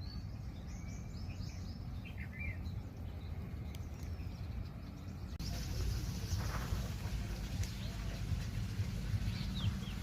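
Small birds chirping in short, pitch-bending calls a few times, over a steady low rumble that grows louder about halfway through.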